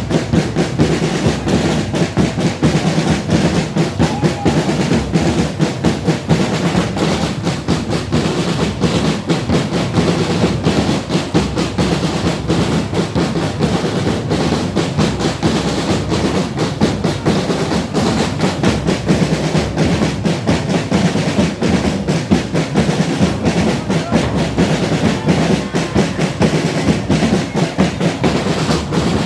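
A street drumming band playing a dense, driving drum rhythm without a break.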